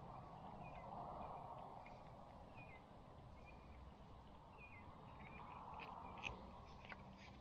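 Near silence: faint small bird chirps over a soft outdoor hush, with a couple of sharp clicks about six seconds in.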